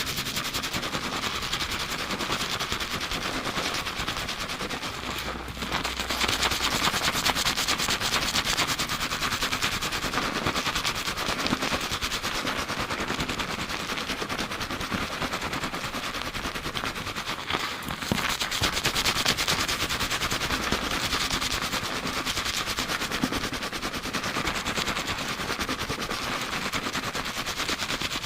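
Fingers rapidly scrubbing a lathered scalp during a fast shampoo, heard close up: a dense, continuous wet crackling of shampoo foam, growing louder for a few seconds at a time.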